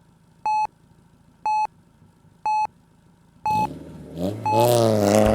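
Four short, evenly spaced electronic beeps a second apart, like a race-start countdown, then a car engine revving hard from about three and a half seconds in, its pitch climbing, dipping briefly and climbing again.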